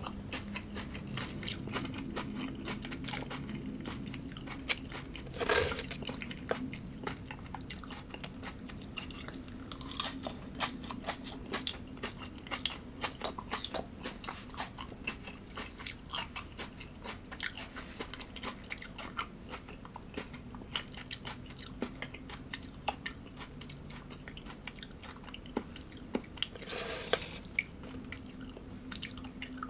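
Close-miked chewing and crunching of food, with a steady run of small crisp crunches. Two louder, longer crunches come about five seconds in and near the end. A faint steady low hum runs underneath.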